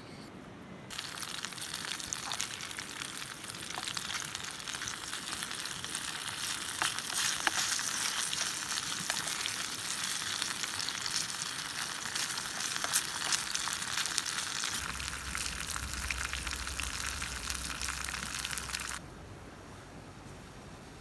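Food sizzling as it fries in hot oil: a steady frying hiss with many sharp pops and crackles that starts suddenly about a second in and cuts off suddenly near the end. A low rumble joins for its last few seconds.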